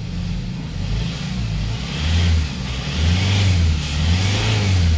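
Hyundai Starex diesel engine revved in about three surges from about two seconds in, its pitch rising and falling each time. Three of its four fuel injectors have just been replaced, and it runs without the fuel knock it had before.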